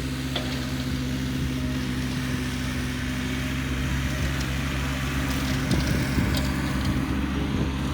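Tractor engine running steadily while pulling a bush hog rotary cutter through brush, with a rougher, noisier stretch a little past the middle.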